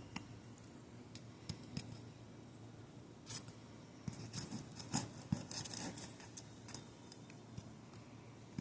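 Asphalt shingle tabs being pried up from their sealant strip: scattered crisp clicks and short crackling, tearing scrapes, busiest in the middle, as the seal bond breaks.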